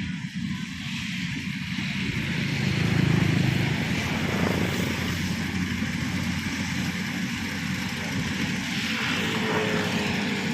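Kubota corn harvester running, a steady engine drone with a haze of machine noise over it, swelling briefly about three seconds in.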